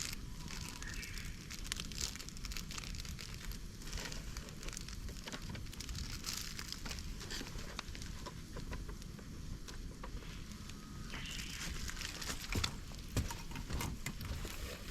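Fire of dry bamboo, twigs and leaves crackling in a fire-pit stand, with scattered sharp pops, the loudest two a little before the end.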